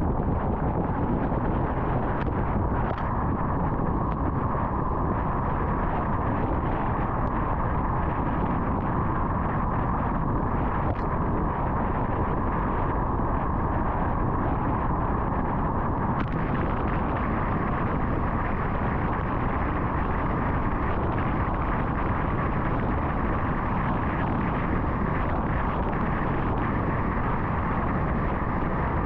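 Steady road noise of a car driving on the interstate: an even rush of tyres and wind, with a few faint ticks here and there.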